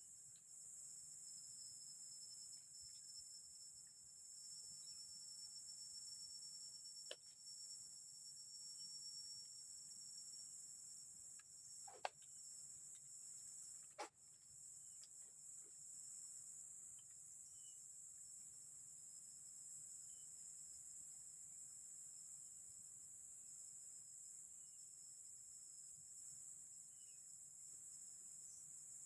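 Faint forest insect chorus of crickets, with a steady high-pitched trill, and a few sharp clicks or knocks about a third and halfway through.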